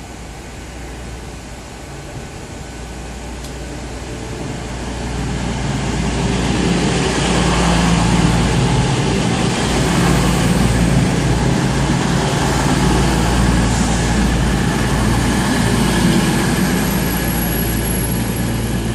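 CrossCountry Class 221 Voyager diesel multiple unit coming into the platform. The hum of its underfloor diesel engines builds over a few seconds, then stays loud and steady.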